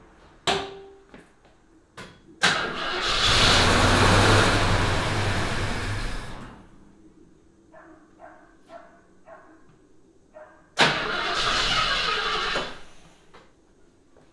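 1974 AMC Javelin's engine cranking on the starter for about four seconds without catching, a few faint clicks, then a second shorter crank of about two seconds that also dies away. It is a no-start, which the owner puts down to the newly fitted fuel pump not pumping fuel.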